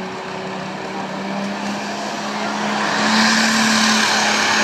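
Super stock diesel pulling truck's engine running hard under load, its pitch creeping slightly upward. About three seconds in it grows louder and a bright hiss joins it.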